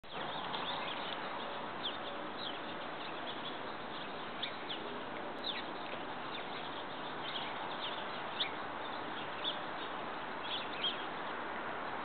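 Small birds chirping: short, high calls, some falling in pitch, scattered irregularly over a steady background hiss.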